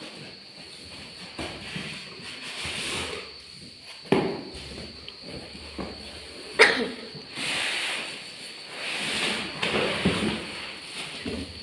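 Objects being handled: irregular rustling and shuffling with two sharp knocks, one about four seconds in and a louder one about two and a half seconds later.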